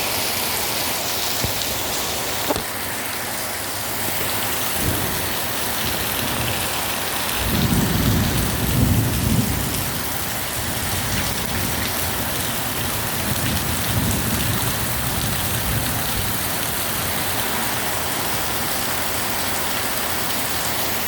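Heavy rain pouring down in a steady, dense hiss. A low rumble swells about eight seconds in and more weakly a few seconds later.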